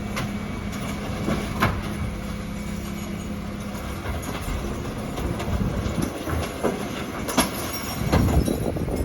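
Dennis Elite 6 refuse truck at work: a steady low hum that fades about halfway through, with scattered knocks and clatters that get busier near the end.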